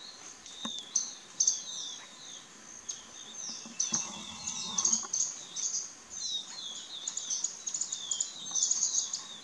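Small birds chirping and twittering: rapid, high-pitched notes in repeated clusters. A short, lower, rougher sound comes about four seconds in.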